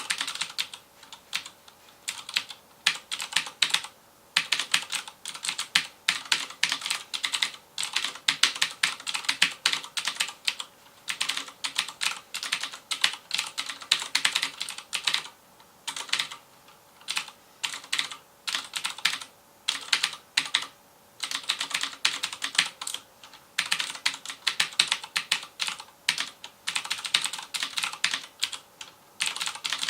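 Fast typing on a FILCO Majestouch Convertible 2 mechanical keyboard with clicky Cherry MX Blue switches: dense runs of sharp keystroke clicks in bursts of a few seconds, broken by short pauses.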